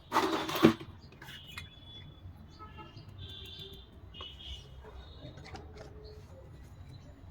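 Handling of small plastic dollhouse pieces and packaging: a loud rustle at the start, then light clicks and taps.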